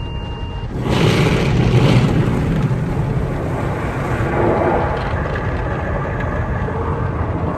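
Loud rushing noise with a deep rumble that swells sharply about a second in, then settles to a steady roar.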